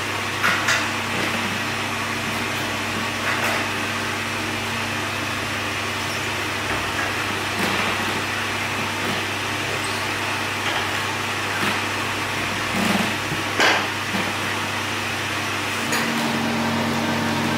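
Steady mechanical hum of screen-printing workshop equipment, with a few short scrapes and knocks of work at the press; the hum takes on a higher tone near the end.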